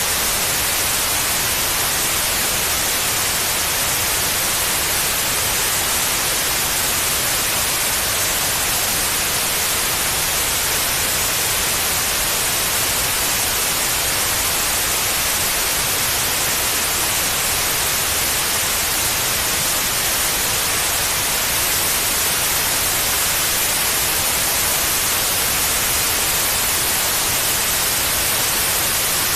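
Steady white noise: an even, unbroken hiss, brightest in the high range, played as a sleep aid for babies.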